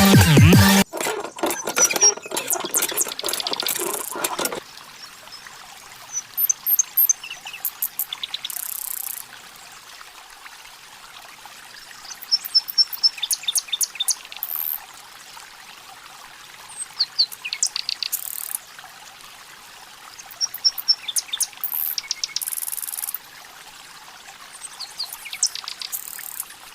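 Water pouring and trickling steadily, with birds chirping in short repeated bursts over it.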